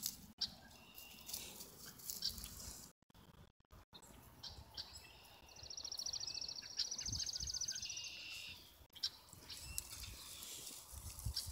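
A songbird singing a rapid, high trill lasting about two seconds, a little past the middle, rising slightly in pitch. A few shorter high chirps come before and after it.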